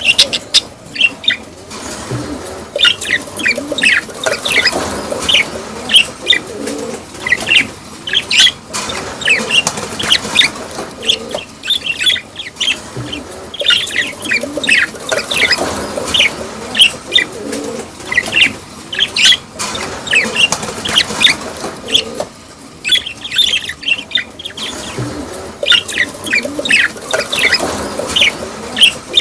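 Budgerigars chirping and chattering, with many short, sharp calls in quick clusters.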